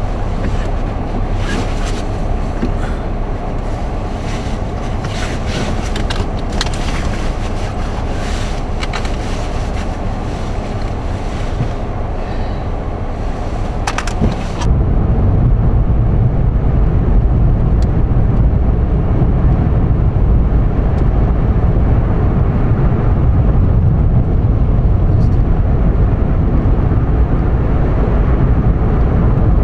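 Vehicle road and wind noise, a steady rumble. There are scattered clicks and crackles in the first half, and about halfway through it cuts abruptly to a louder, deeper rumble.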